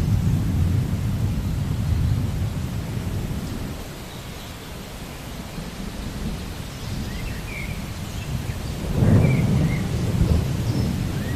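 Thunder rumbling low over steady rain: the rumble is strong at first, dies down after about four seconds, and swells again about nine seconds in. A few faint short chirps sound above it.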